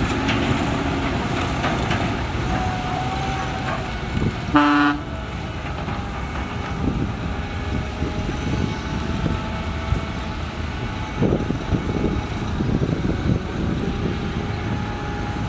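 Heavy construction machinery engines running steadily, with one short vehicle horn toot about four and a half seconds in.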